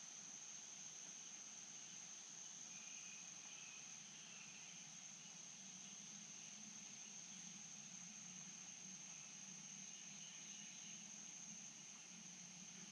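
Faint, steady insect chorus holding one high, continuous note, over a soft even hiss and a low wavering hum.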